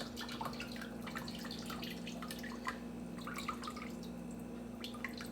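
Chicken broth dripping from a colander of strained bones and vegetables into a bowl below, in small irregular drips that come thick at first and then thin out.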